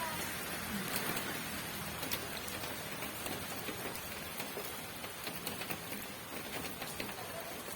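Steady rain falling, a continuous hiss with scattered sharp drops ticking on a surface.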